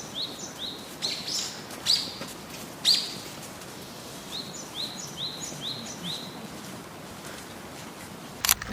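A songbird calling outdoors: runs of four to six short chirps, each sliding down in pitch, a few a second, with some louder single notes in between. A sharp click comes near the end.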